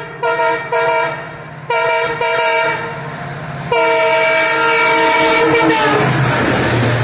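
EMD WDP4-family diesel locomotive sounding its multi-tone air horn in several blasts, the last one long, over the low drone of its engine; about six seconds in the horn stops and the locomotive's engine and the train's running noise rush past.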